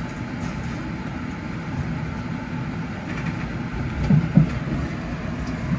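JR Central 313-series electric train running along the track, a steady rumble of wheels on rail. Two sharp knocks come about four seconds in, wheels passing over the track.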